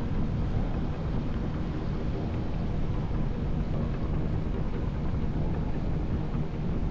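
Motorcycle running at road speed under a heavy, unsteady low rumble of wind on the camera microphone.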